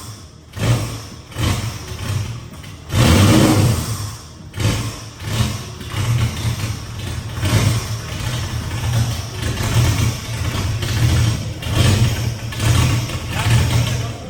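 Skid ute's engine, fitted with custom twin throttle bodies, being revved in repeated short blips over a steady idle, with one longer, louder rev about three seconds in.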